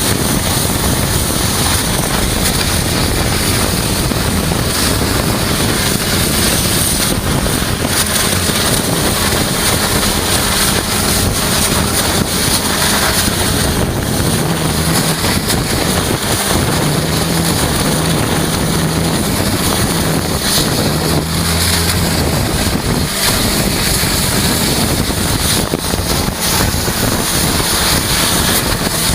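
Loud, steady hiss of a hydrodemolition robot's high-pressure water jet blasting concrete, over a low machine drone that carries a steady low tone for several seconds in the middle.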